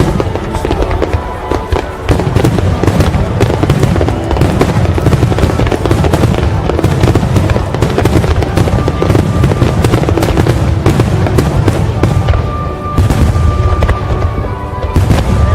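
A dense, continuous barrage of fireworks bursting and crackling in rapid succession, with deep booms underneath and music playing along.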